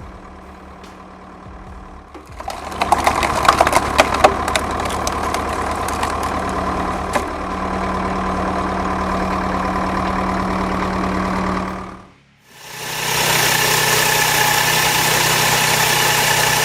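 Hydraulic wood splitter running at a steady low hum. About two seconds in it gets much louder, with sharp cracks and creaks as a log is forced apart, then runs steadily under load. About 12 seconds in it cuts off suddenly, and a different machine with a higher-pitched steady whine runs to the end.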